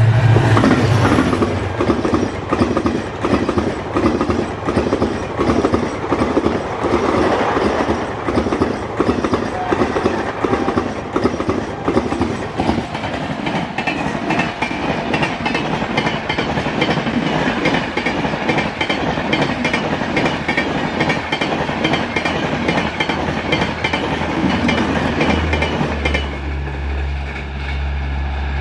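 A diesel-hauled express passenger train passes at high speed. The locomotive's engine is heard at the start, then the long rake of coaches runs by with a rhythmic clickety-clack of wheels over rail joints. Near the end, as the last coach goes by, the clatter fades into a low steady hum.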